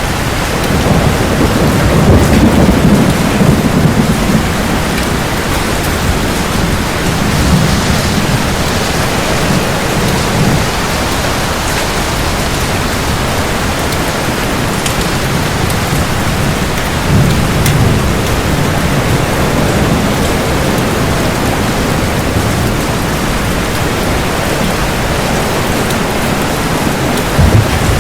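Steady rain with low rolling thunder that swells several times beneath it.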